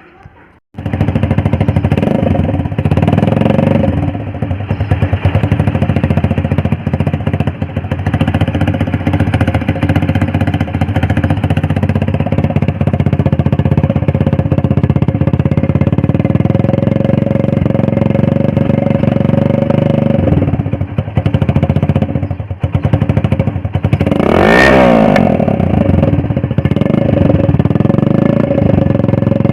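Yamaha RX100's two-stroke single-cylinder engine running through an old Hero Splendor exhaust, coming in abruptly under a second in and running steadily. It dips briefly about two-thirds through, and near the end the pitch swings sharply once in a quick rev.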